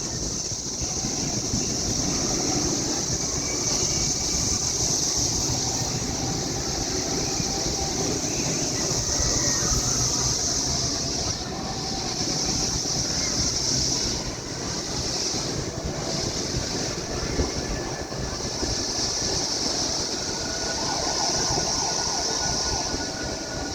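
A dense, loud chorus of periodical cicadas: a high, shrill drone that briefly fades a few times about halfway through, then swells back. Under it is a continuous low rumble.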